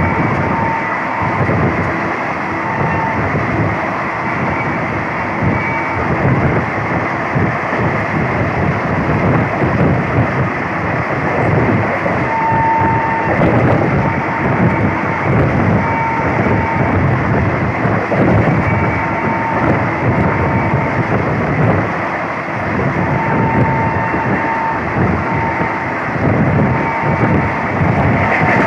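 Passenger train running at speed, heard on board: a steady rushing rumble of wheels and wind, with short faint whining tones coming and going every few seconds.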